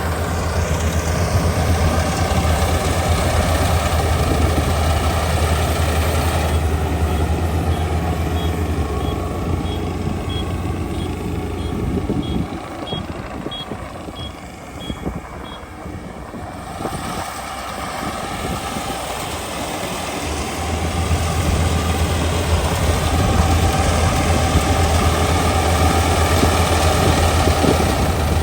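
Kubota ER572 combine harvester's 72-horsepower diesel engine and threshing machinery running with a steady low drone, which drops back about a third of the way in and builds up again near the end. While it is lower, a high electronic beep repeats a little more than once a second for several seconds.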